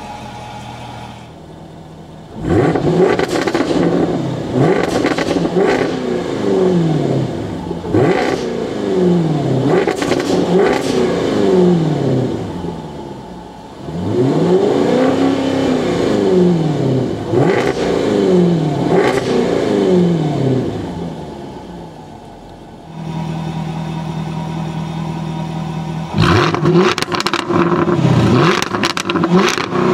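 2016 Jaguar F-Type R's supercharged 5.0-litre V8, heard through its dual-mode exhaust, free-revved over and over while stationary. It blips up and falls back about once a second, in two long runs of revs with short spells of idle between them. The idle gets louder and deeper a few seconds before a final run of revs near the end.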